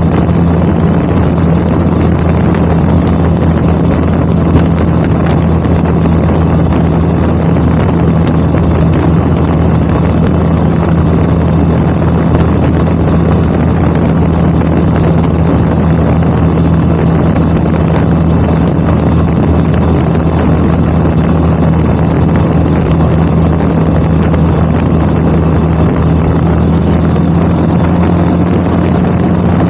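2011 Yamaha WR250R's single-cylinder engine with an FMF Powercore 4 muffler, running at steady cruising revs with an even exhaust drone, mixed with wind noise on the microphone.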